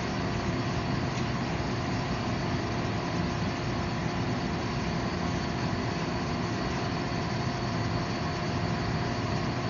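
Forge shop machinery running with a steady, even noise and a faint hum of a few steady tones, with no strikes or impacts.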